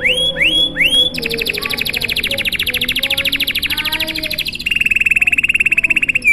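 Domestic canary singing a long, unbroken song: three rising slurred notes, then a long, fast trill of repeated notes, changing about four and a half seconds in to a lower, quicker rolling trill.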